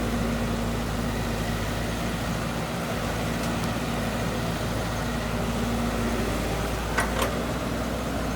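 Heavy earthmoving machine's diesel engine running steadily, with two sharp knocks close together near the end.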